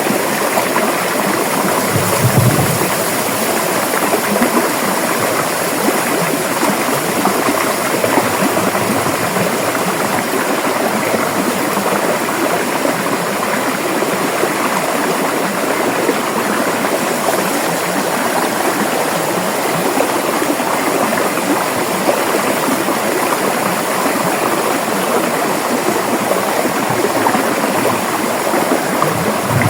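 River water flowing over rocks: a steady rushing and babbling, with a brief low thump about two seconds in.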